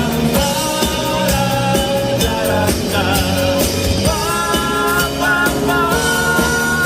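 A live rock band playing, with drums, guitars and a held vocal or lead line.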